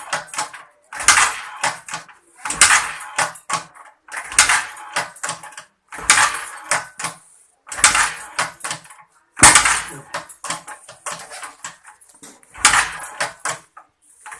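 Suzuki Skydrive 125 FI scooter being kick-started again and again, about eight kicks, each a sharp metallic clack with a rattle, with a longer pause near the end. The engine never catches: it will not start after six months standing with a flat battery.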